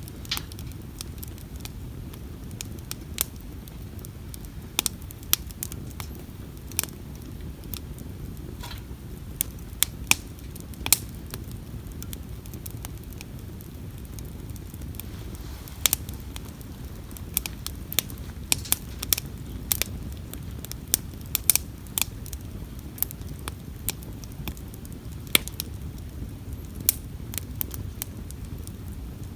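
Wood campfire crackling: irregular sharp pops and snaps, several a second at times, over a steady low rumble of burning.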